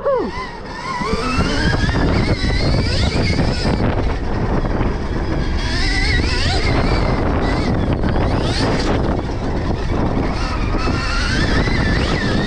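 Stark Varg electric motocross bike's motor whining, its pitch rising and falling repeatedly as the throttle opens and closes, over a heavy low rumble of wind and tyres on dirt.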